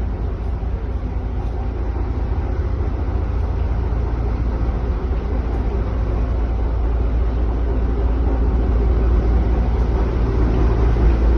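Steady low rumble with a faint hiss above it, slowly getting louder.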